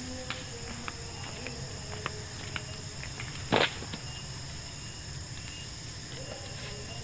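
Steady high-pitched chorus of night insects, with scattered small clicks and one louder, short rush of noise about three and a half seconds in.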